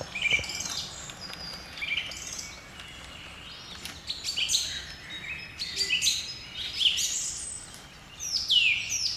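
Outdoor birdsong: songbirds singing in a quick string of chirps and warbled phrases, ending in a run of fast falling notes.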